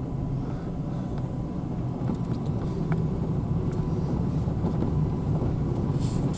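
Truck camper's pickup truck driving on a forest road, heard from inside the cab: a steady low rumble of engine and tyres, with small ticks and a short hiss near the end.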